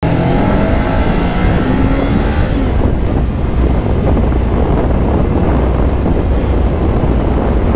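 Kawasaki Ninja 500 parallel-twin engine rising in revs as the bike accelerates for the first couple of seconds, under heavy wind rush on the microphone that carries on steadily at speed.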